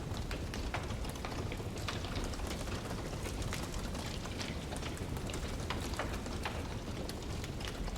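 Wood fire crackling: frequent small, irregular pops and snaps from burning logs over a steady low rushing noise.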